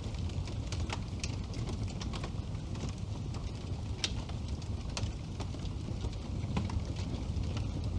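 Wood fire burning in a fireplace, crackling with many irregular sharp pops over a low, steady rumble of the flames. One pop about four seconds in is stronger than the rest.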